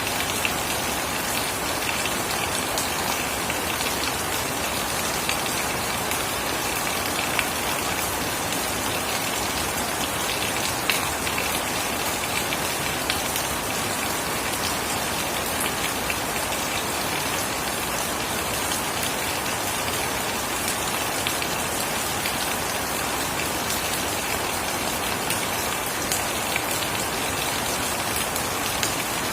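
Steady rain falling on surfaces, with individual drops hitting close by now and then.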